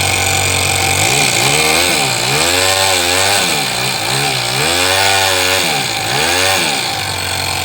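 Toyan FS-S100 four-stroke glow model engine running, revved up and down several times, with the pitch rising and falling, then settling back to a steady idle near the end.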